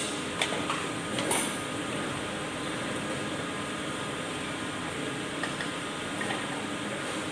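A machine running steadily, an even mechanical hum with a few light clicks in the first second and a half.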